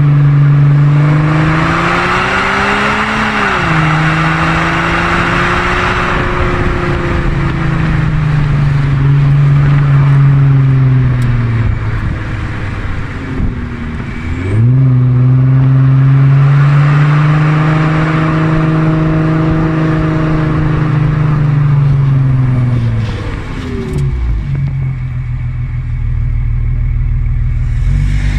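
Audi A4 B7 3.0 TDI V6 diesel with straight-piped exhaust, running loud under throttle. Its engine note climbs and falls over several seconds at a time, with sudden drops and quick recoveries like gear changes. It settles lower for a few seconds near the end, then rises again.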